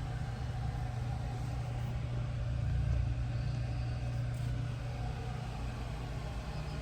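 1968 Chevrolet Camaro SS race car's engine idling, a steady low rumble, swelling slightly about three seconds in.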